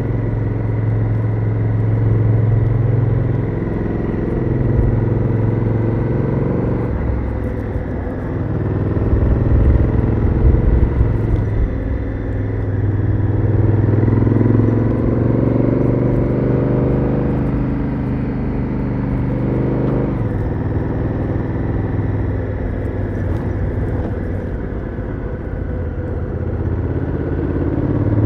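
Honda Africa Twin CRF1000L's parallel-twin engine heard onboard through its stock exhaust, running under way. The engine note rises and falls with the throttle, with a sudden change in pitch about two-thirds of the way through.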